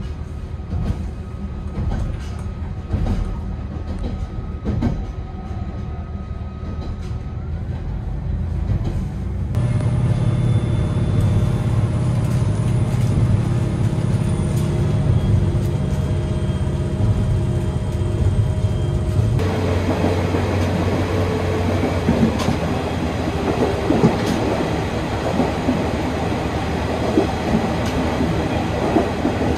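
Aizu Railway Ozatoro diesel railcar train running along jointed track, heard from inside the cars: a steady low rumble of engine and wheels with frequent clicks from the rail joints. The sound changes abruptly twice, about a third and about two thirds of the way through, and is loudest and roughest in the last third.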